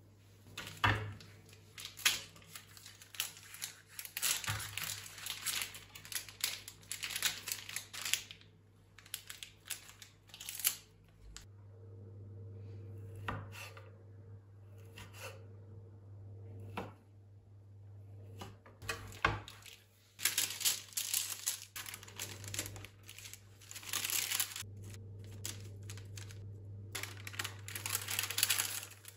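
Paper or plastic packaging being torn and crinkled by hand, in irregular bursts with sharp little clicks, easing off for several seconds in the middle, over a low steady hum.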